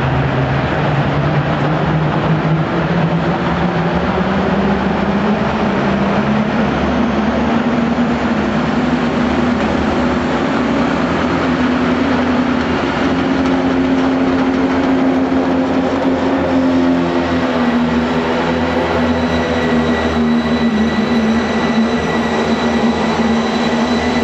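Diesel pulling truck's engine running hard under load, its pitch climbing slowly and then holding. A thin, high, steady whistle comes in over the last third.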